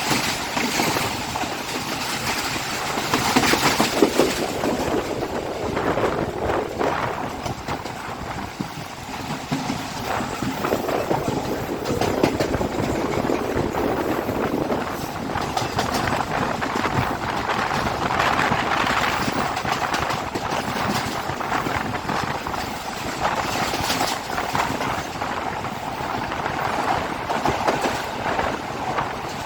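Express train running at high speed, its wheels clattering over the rail joints in a steady rush of rolling noise.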